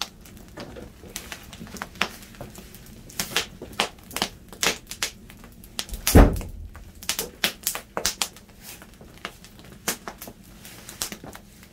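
Firewood burning in a wood fire, crackling with irregular sharp pops and snaps, with one heavier thump about six seconds in.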